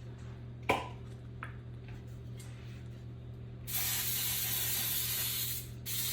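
A sharp click, then aerosol cooking oil spray hissing steadily for about two seconds as it greases a loaf pan, with a second spray starting near the end.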